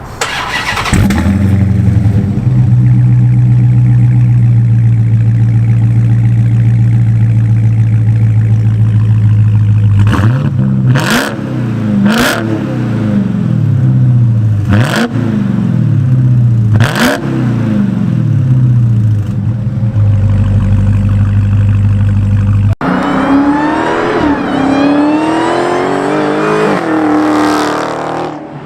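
Dodge Charger Hellcat's supercharged 6.2-litre Hemi V8, with its rear mufflers deleted, starting up and settling into a loud steady idle. From about a third of the way in it is blipped sharply about five times, each rev dropping back to idle. After a cut near the end the engine is heard rising and falling in pitch.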